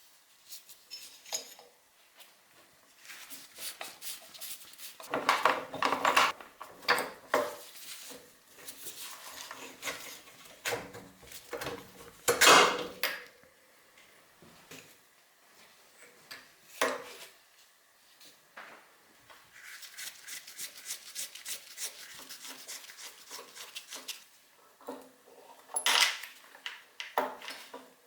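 Metal hand tools and small metal parts clinking, knocking and rattling as they are handled, with a few louder knocks and stretches of rapid clicking.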